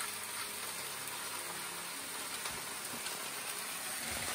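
Sliced potatoes and onions frying in a pan on a gas stove, a steady sizzle.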